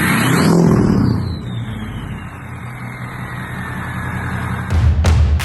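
2004 Ford F-250 4x4's engine revving up once and dropping back, followed by a thin high whine that falls slowly in pitch over a few seconds. Loud, bass-heavy music cuts in near the end.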